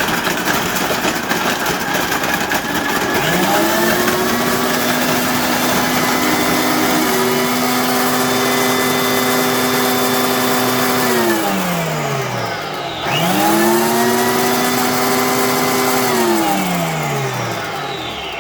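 Margaritaville DM2000 frozen concoction maker running its cycle: a rough grinding noise at first, then the blender motor spins up about three seconds in and hums steadily, winds down around twelve seconds, spins up again at once and winds down near the end.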